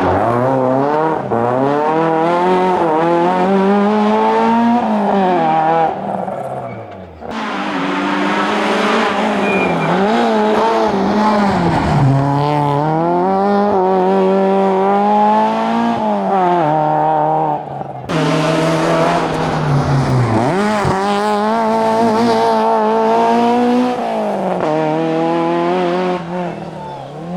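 Citroën Saxo race car's four-cylinder engine revving hard. Its pitch climbs through each gear and drops at each shift or lift-off. The sound breaks off abruptly twice, about seven and eighteen seconds in, as separate takes are joined.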